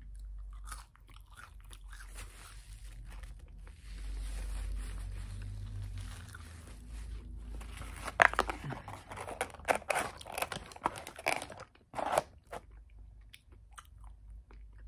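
Close-miked chewing of McDonald's french fries: soft mouth sounds at first, then a run of sharp crunchy, crackly bites and chews from about eight to twelve seconds in.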